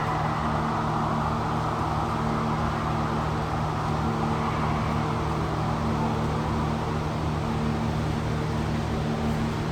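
Steady mechanical hum: a constant low drone with a rushing noise over it, unchanging throughout.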